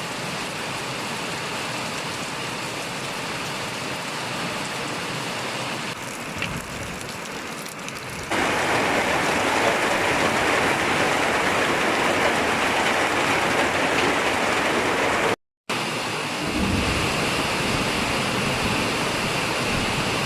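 Heavy rain falling steadily, growing louder about eight seconds in and cutting out for a moment shortly after the middle.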